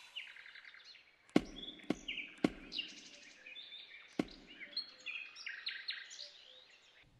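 Small birds chirping in quick, repeated high calls and trills, broken by four sharp knocks: three about half a second apart starting about a second and a half in, and one more past the middle.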